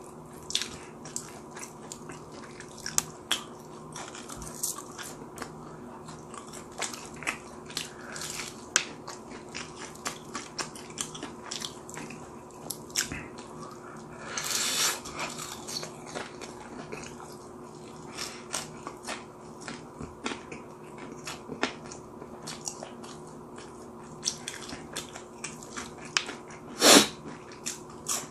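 Close-up eating sounds: crispy fried chicken being bitten and chewed, a stream of small crunches and wet mouth clicks. About halfway there is a louder, longer crunch, and a single loud sharp click comes near the end.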